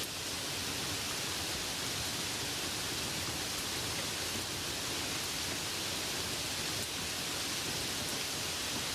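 Light rain falling, a steady even hiss with no separate drops standing out.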